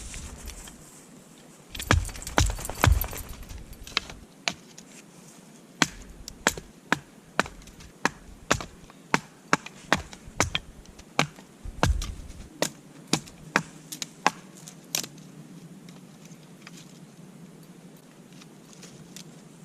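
Knife being batoned through dry wood to split kindling: a wooden baton knocking on the knife's spine in a run of sharp strikes, about two a second, that stops about three-quarters of the way through.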